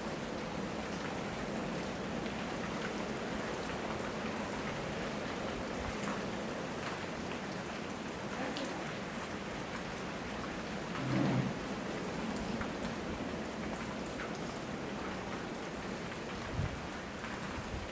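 Steady rain falling on surfaces, with drops heard among the even hiss. A brief low thump comes about eleven seconds in, and a smaller one near the end.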